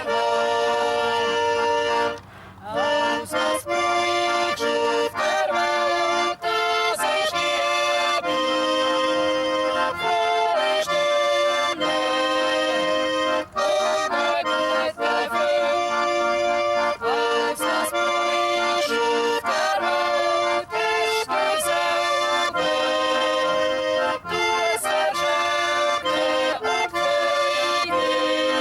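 Live accordion playing a folk tune in sustained chords, with a brief break about two seconds in.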